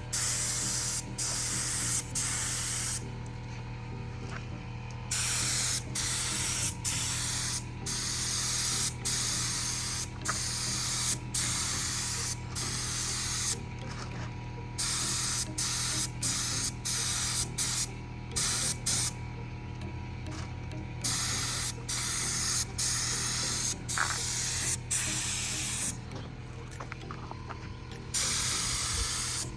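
Compressed-air paint spray gun hissing as a coat of paint goes on, in trigger pulls of about a second each with brief stops between and a few longer pauses. A steady low hum runs underneath.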